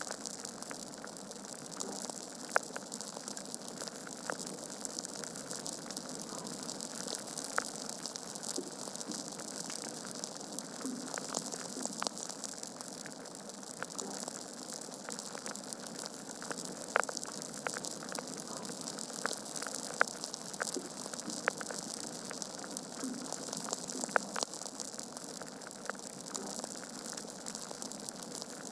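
Log fire crackling in a fireplace: a steady hiss of burning wood broken by irregular sharp pops and snaps, a few of them much louder than the rest.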